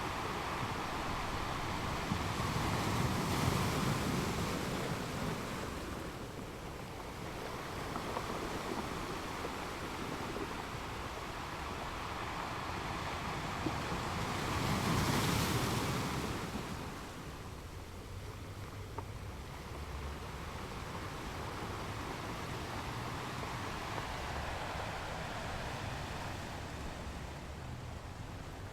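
Ocean waves washing on a beach: a steady surf wash with two louder surges as waves break, one a few seconds in and a stronger one about halfway through, after which the wash settles quieter.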